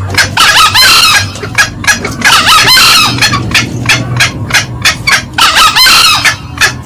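Green junglefowl calls played loud as a lure: a quick run of short clucks, about three to four a second. Three longer crowing calls come in, near the start, about two and a half seconds in, and near the end.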